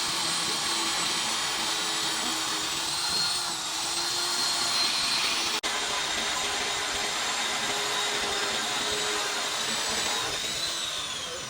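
A handheld electric power tool running steadily with a high whine, its pitch dipping twice as it takes load on the work.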